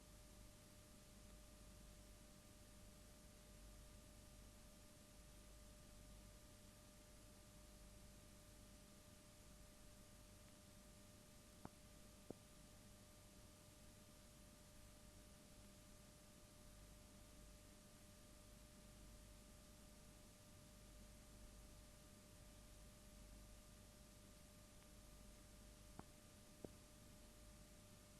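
Near silence: a faint steady electrical hum or whine over hiss, with two pairs of faint clicks, one about halfway through and one near the end.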